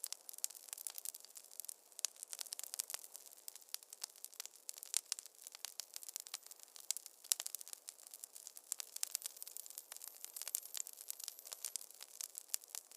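Wood fire crackling in a fireplace: a dense, irregular stream of small pops and snaps, mostly sharp and high, with no low rumble.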